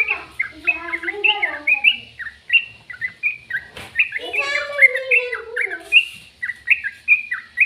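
Bird chirping in many quick, short, high chirps, with two lower, wavering, voice-like passages in between.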